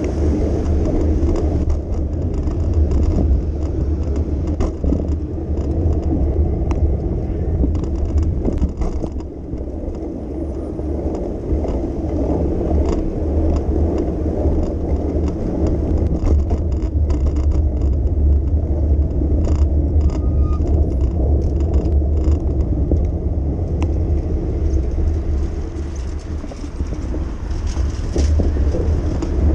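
Street noise heard from a moving bicycle: a steady low rumble of riding and traffic, with scattered light clicks and rattles.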